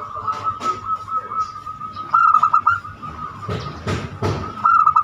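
Zebra dove (perkutut) cooing: a quick run of short pulsed coos about two seconds in and again near the end, over a steady tone, with small birds chirping. A few loud thumps come between the coo runs.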